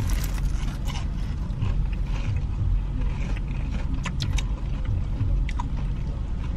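Steady low rumble of a car cabin with the engine running, with scattered small clicks and paper rustles.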